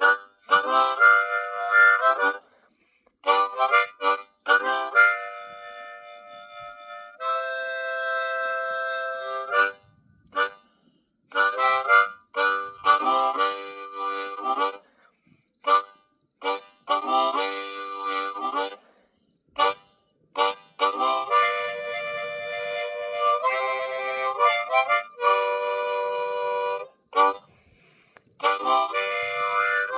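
Solo blues harmonica playing phrases of short repeated notes and longer held chords, with brief pauses between phrases.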